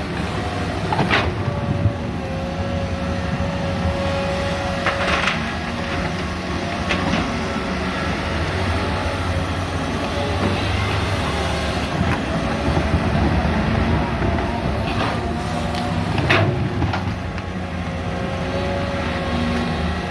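Two hydraulic excavators' diesel engines working steadily under load with a steady high whine. Several sharp knocks come as the buckets strike rock, the loudest about 16 seconds in.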